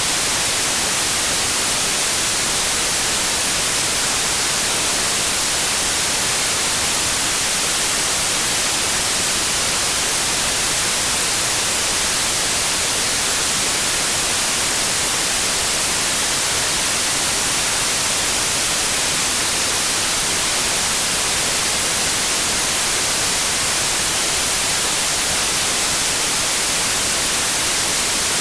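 Steady, unchanging white noise: an even hiss that is brightest in the treble.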